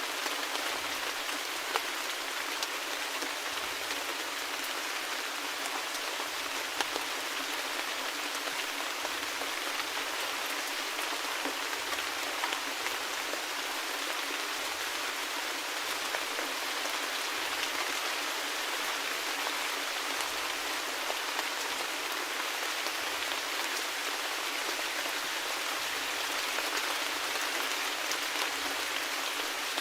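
Rain falling steadily: an even hiss with scattered louder drop ticks, and no deep rumble beneath it.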